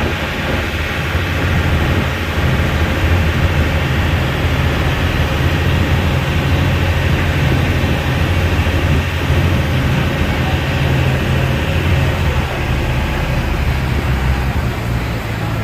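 Boat engine running steadily: a constant low drone with a wash of noise above it.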